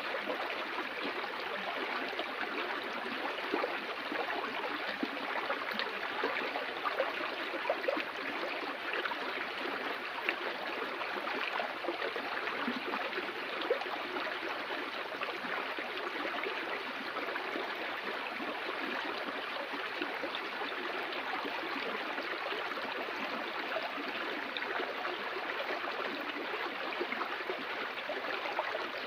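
Water flowing in a stream, a steady rushing with many small splashes and gurgles throughout.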